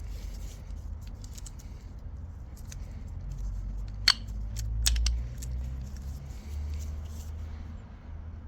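Light metallic clicks and scraping of small gearbox parts and tools being handled, with a sharp click about four seconds in and another just before five.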